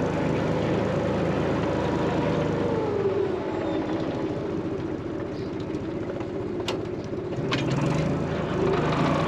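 An engine running steadily, slowing about three seconds in and picking up speed again near the end, with a couple of brief clicks in between.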